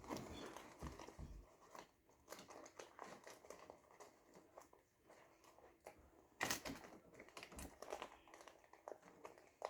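Faint, irregular crinkling and crackling from hands working slime-making materials, with a sharper crackle about six and a half seconds in.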